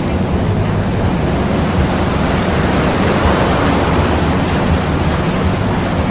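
Water-and-wind ambience: a steady rushing noise with a heavy low rumble, swelling a little about halfway through.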